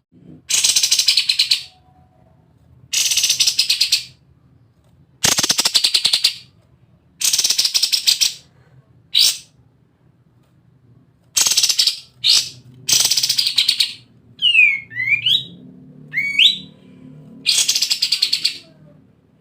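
Kapas tembak bulbul singing in loud, rapid rattling bursts of about a second each, repeated every two seconds or so. Near the three-quarter mark a few clear, swooping whistles come in between the bursts.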